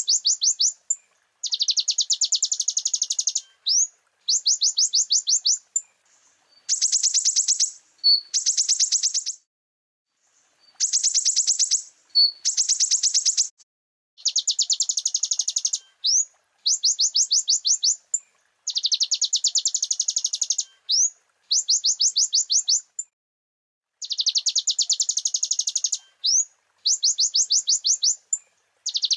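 Konin (kolibri ninja) sunbird singing a loud, high-pitched, rapid trilling song in bursts of one to two seconds, with fast runs of repeated notes and short silent gaps between phrases.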